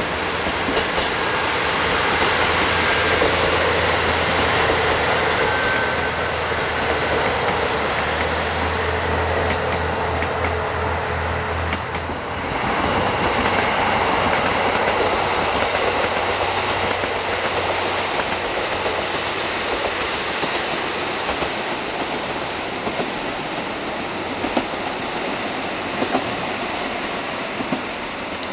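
Diesel train passing close by: a steady low engine drone under the rolling noise of the wheels for about the first twelve seconds, then wheels rolling and clicking over the rail joints as the train goes by.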